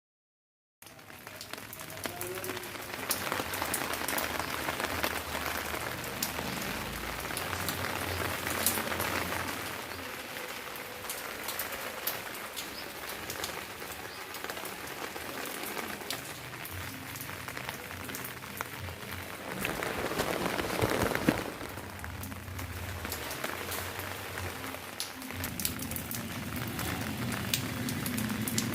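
Light rain falling steadily, a constant hiss dotted with many individual drops ticking; it cuts in suddenly about a second in and swells louder briefly about two-thirds of the way through.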